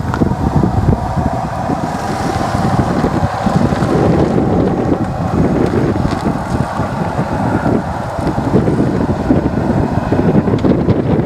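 Wind buffeting the microphone in uneven gusts, with a steady hum underneath.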